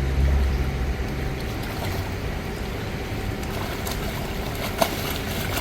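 Steady outdoor rumbling noise with no clear source, heaviest in the lowest range for the first second and a half, with a single short click about five seconds in.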